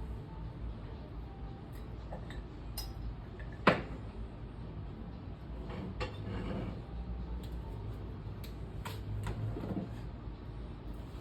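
A few sharp clinks and knocks of hard objects being handled, the loudest nearly four seconds in, over a low steady hum.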